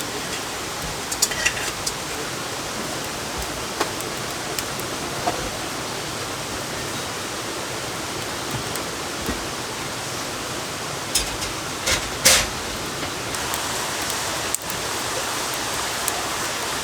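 Steady rush of water, with a few sharp taps scattered through it; the loudest comes about twelve seconds in.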